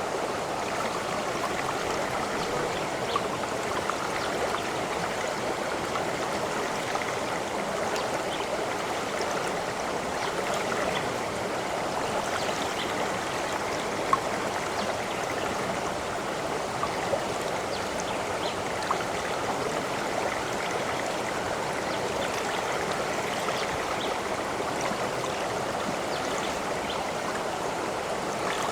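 A stream of running water, babbling and trickling steadily, with small splashes and drips here and there.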